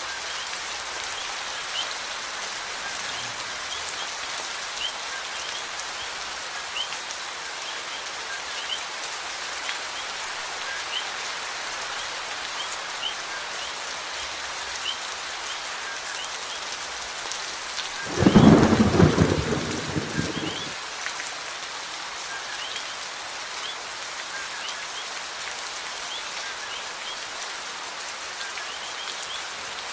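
Steady rain falling, with a single loud thunderclap about two thirds of the way through that rumbles for a couple of seconds and then ends suddenly.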